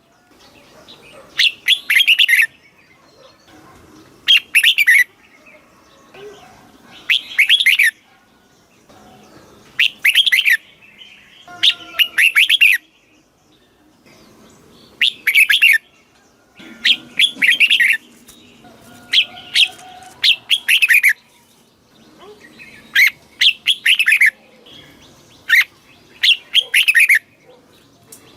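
Red-whiskered bulbul singing short, loud, warbled song phrases about every two to three seconds, with faint background sound in the pauses.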